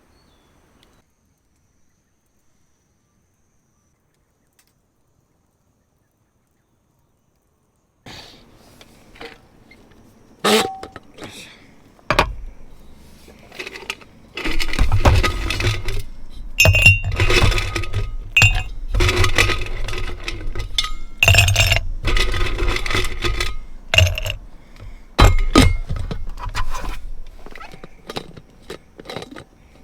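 Silence for about the first quarter, then a run of clinks and knocks of hard objects being handled, thickening into loud, dense clattering and handling noise before thinning out near the end.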